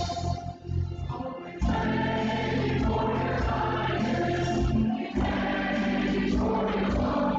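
Church worship music: a group of voices singing together over instrumental accompaniment with sustained bass notes. The music thins out briefly near the start, then comes back in fully about a second and a half in.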